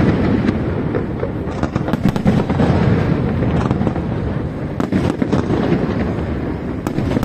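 New Year fireworks going off continuously: a dense barrage of bangs and crackles over a steady low rumble.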